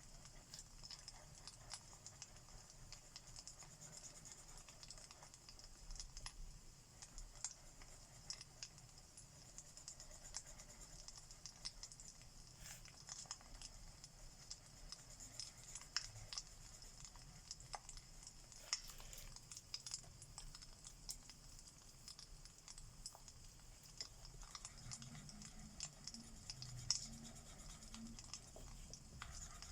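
Faint crackling fire with scattered small pops and a steady hiss, mixed with the soft scratch of alcohol-marker strokes on paper.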